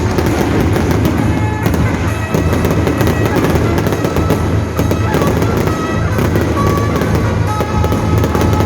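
Fireworks crackling and popping in rapid, dense succession, with music playing underneath in long held notes.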